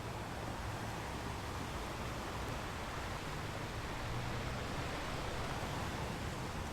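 Ocean surf washing onto a beach: a steady, even rush of water noise with no single breaking crash standing out.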